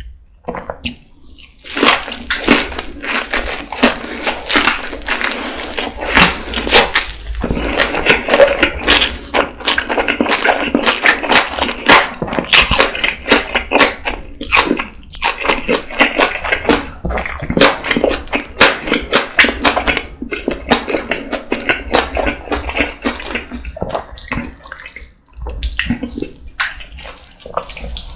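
Close-miked chewing of tuna kimbap: rice, seaweed and fillings being bitten and chewed, a dense run of small wet clicks with a few short breaks.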